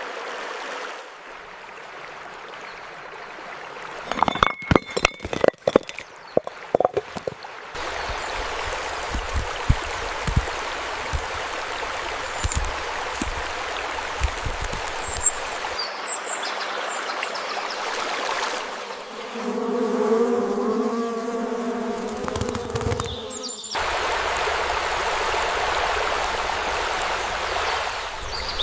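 A run of nature sounds: a cluster of sharp clicks and knocks, then a steady rushing like flowing water, with a humming buzz for a few seconds partway through.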